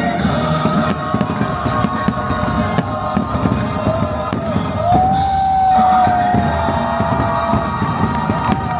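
Fireworks going off in frequent bangs and pops over the show's musical soundtrack, with a long held note about halfway through.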